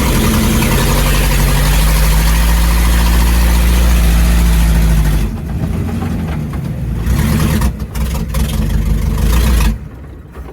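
Mini S10 monster truck's engine running loud and steady, then faltering into an uneven, sputtering run about halfway through and cutting out near the end: the truck has run out of gas.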